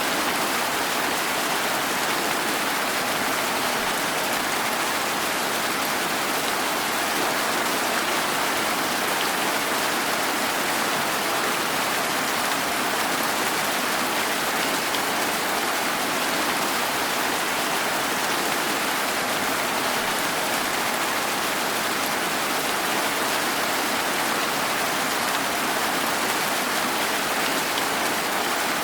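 Steady rain falling, an even, unbroken hiss of rain on surfaces.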